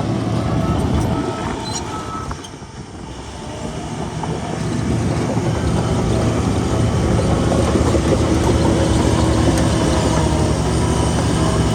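Bulldozer's diesel engine working, loud and continuous; it eases off about two and a half seconds in, then builds back up and runs steady.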